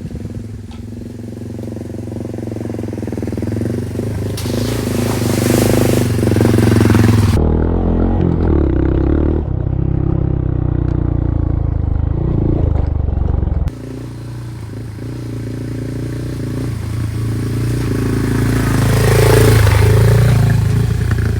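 Honda Monkey's single-cylinder four-stroke engine running under way on a trail. The engine note builds gradually, drops off suddenly about two-thirds of the way through, then climbs again.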